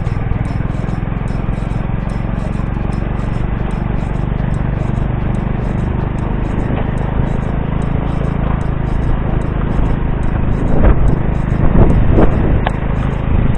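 Motorcycle taxi running along the road with a passenger on board, its engine under a steady wind rumble on the microphone. A few louder gusts or jolts come near the end.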